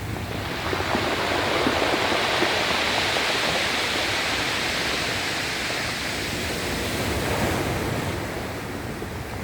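Sea waves breaking and washing ashore: a rushing surge that builds about a second in and dies down near the end.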